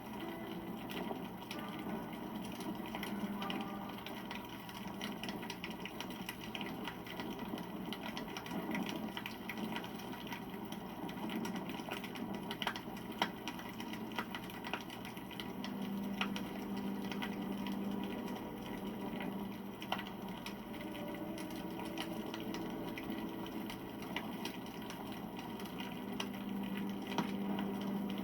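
Wood campfire crackling steadily, with many small pops and snaps over a soft hiss of burning.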